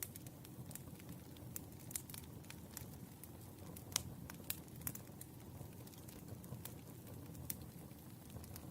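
Wood fire crackling: irregular sharp pops and snaps, the loudest about four seconds in, over a low, steady rumble of the burning logs.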